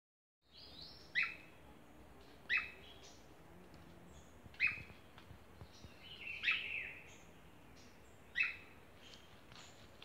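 A forest bird of the Brazilian Atlantic Forest calling: a short, sharp note sliding down in pitch, repeated five times about every two seconds, the one about six and a half seconds in longer and fuller, over a faint steady forest background.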